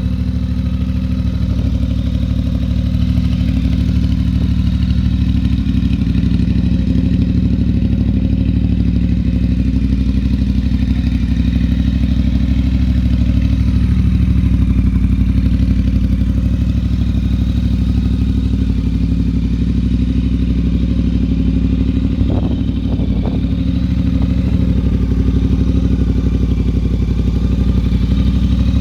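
Triumph Bonneville Bobber's 1200 cc parallel-twin engine idling steadily through slash-cut exhausts, a deep even exhaust note with a slight swell about halfway through.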